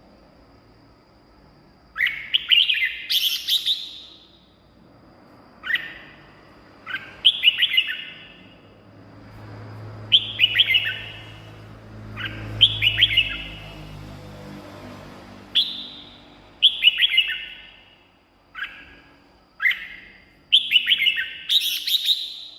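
Red-whiskered bulbul singing: short, quick, warbling phrases, about a dozen of them, each lasting under a second and separated by pauses of a second or two. A faint steady high tone sits under the song.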